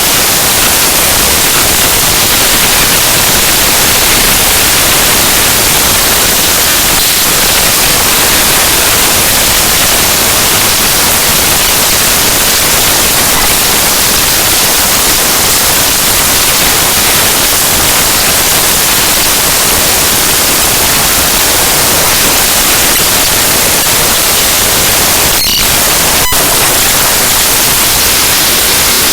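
Loud, steady harsh static hiss, strongest in the high end: the raw binary data of the Windows kernel file ntoskrnl.exe played back as sound. Two brief clicks break through a few seconds before the end.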